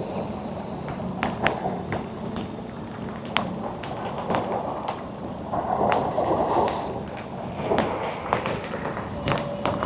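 Storm wind buffeting the microphone over a steady wash of sea and rain, with scattered sharp taps and knocks throughout and a louder surge about six seconds in.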